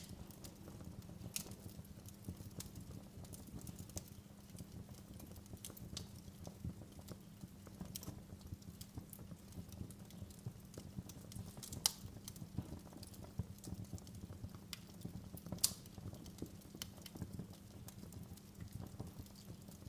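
Wood fire in a fireplace crackling, with a constant scatter of small snaps over a low steady rumble, and two louder pops in the second half.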